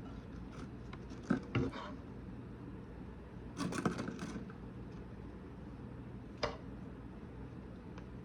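A few light knocks and clicks of kitchen items being handled, with a short clatter about three and a half seconds in and a single click later, over a steady low hum.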